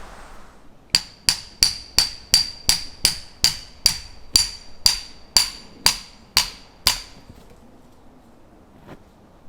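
A hammer striking a steel tent peg about sixteen times, two to three blows a second, each blow ringing metallically: a peg being driven into the ground. The blows slow slightly and stop about seven seconds in.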